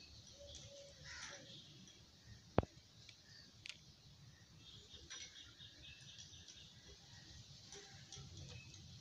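Quiet background with faint bird chirps and one sharp click about two and a half seconds in.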